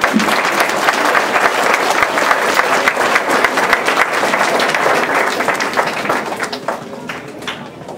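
Audience applauding, many people clapping at once. The applause begins at the start, holds steady, and thins out over the last two seconds.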